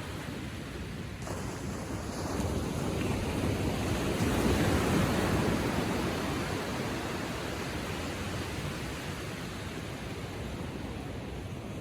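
Ocean waves lapping gently on the shore: a wash that swells about two seconds in, is loudest near the middle, then slowly fades back.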